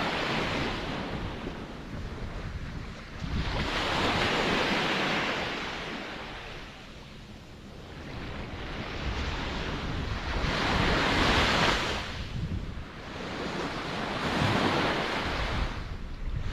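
Ocean surf: waves breaking and washing up, each surge swelling and fading over a few seconds, about four times, with a low rumble of sea breeze on the microphone underneath.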